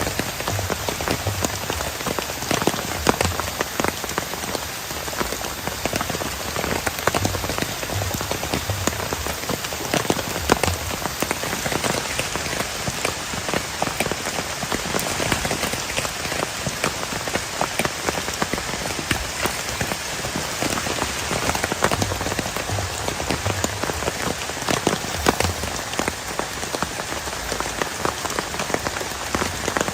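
Heavy rain falling steadily, a dense hiss dotted with many separate drop hits striking close by.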